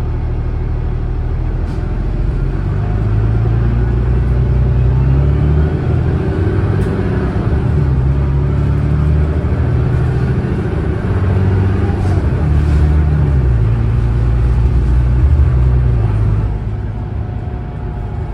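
Alexander Dennis Enviro500 double-decker bus's Cummins ISLe diesel engine pulling hard under acceleration. The note climbs and drops back several times as the ZF six-speed automatic gearbox shifts up, then eases off near the end.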